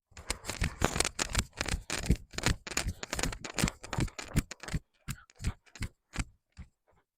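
A fast run of sharp clicks and taps for about five seconds, thinning to scattered single clicks near the end.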